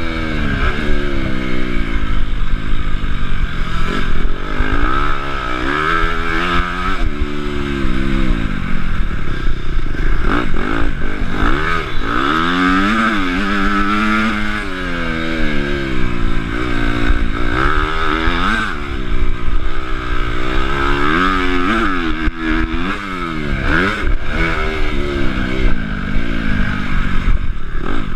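Honda CRF250 motocross bike's four-stroke single-cylinder engine, heard on board from the rider's chest, revving up and backing off again and again as it is ridden round the track, the pitch climbing and dropping with throttle and gear changes.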